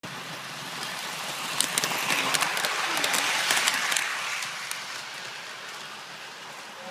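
Lionel toy electric train running on its track, a noisy rattle with sharp clicks that grows louder about two seconds in and eases off after about four seconds.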